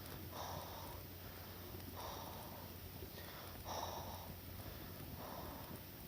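Four evenly spaced puffs of breathy air, each about half a second long, coming roughly every second and a half.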